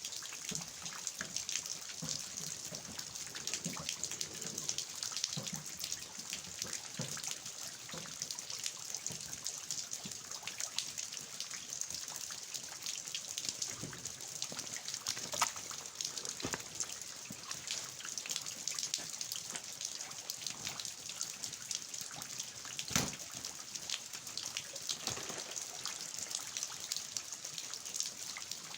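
Steady rain falling, with water dripping and trickling from the eaves of a traditional house and many individual drops ticking. A few drops land louder than the rest, two of them sharply about 15 and 23 seconds in.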